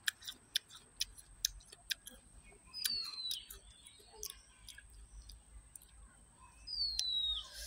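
Two high, downward-sliding whistled bird calls, one about three seconds in and one near the end, over a run of sharp, irregular clicks and a faint steady high-pitched whine.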